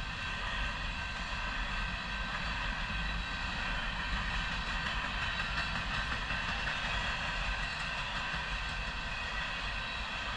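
Freight train of covered grain hopper cars rolling past, a steady rumble of wheels on rail with a thin steady ring of steel wheels over it.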